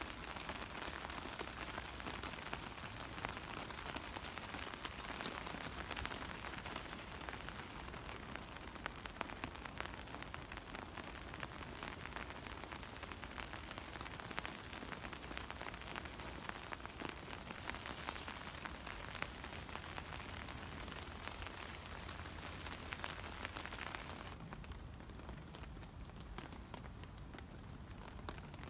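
Steady winter rain falling, a dense hiss of countless small drop taps. Near the end the hiss grows thinner and softer.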